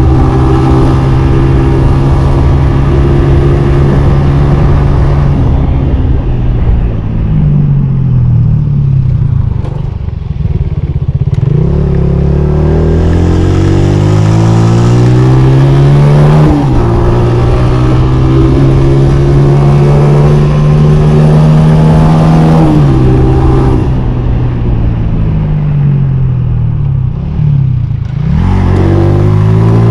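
Honda CG 125's single-cylinder four-stroke engine ridden hard, its pitch held high, then dropping as the throttle eases and climbing again as it revs back up, twice over.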